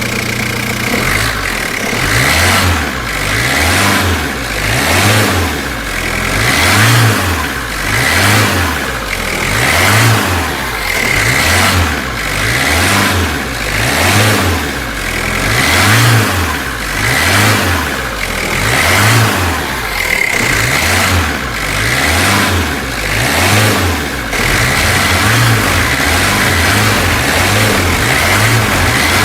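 Diesel engine revving up and down over and over, rising about every second or two while it keeps running under load, as a backhoe loader pulls a dump truck out of sand.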